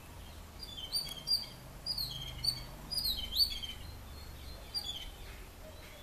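Small garden birds chirping: a quick series of short, high chirps for the first three seconds or so, then a few scattered ones.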